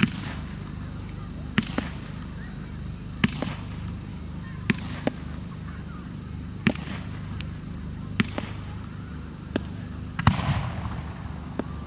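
Firework shells bursting overhead one after another, a sharp bang every second or two. About ten seconds in comes a bigger burst that trails off in crackle.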